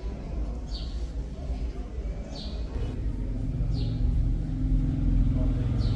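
A motor hum that swells and grows steadily louder from about halfway through, over a low rumble. Short falling high chirps repeat about every second and a half.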